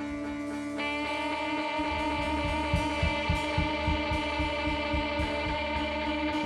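Live rock band playing an instrumental passage: held electric guitar notes ring on, a new higher note comes in about a second in, and a low pulsing beat joins about two seconds in.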